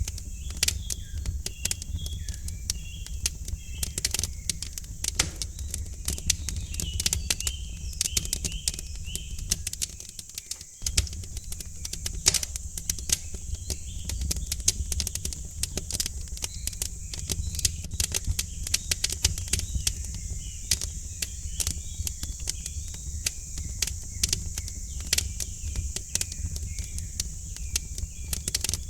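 Wood fire crackling in a fireplace with frequent sharp pops over a low steady rumble, while small birds chirp. The low rumble drops out for a moment about ten seconds in.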